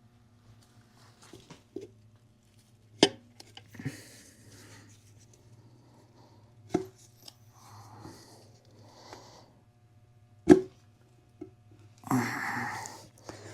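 Tools and loose engine parts being handled while connecting-rod caps are taken off an engine. There are three sharp knocks a few seconds apart, with softer rustling between them, and a longer scraping rub near the end. A steady low hum runs underneath.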